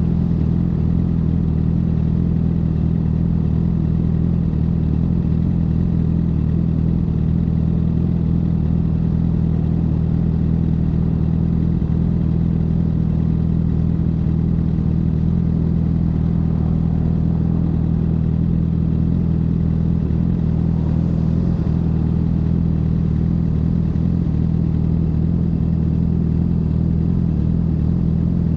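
Honda CBR1000RR inline-four engine running through a Yoshimura full exhaust, holding a steady engine speed with no revving.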